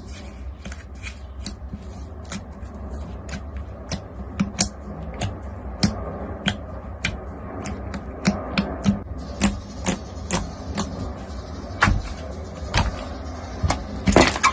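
Crunchy slime being pressed and squeezed by hand, giving irregular crackling pops, a few a second, that get louder after the first few seconds, over a steady low hum.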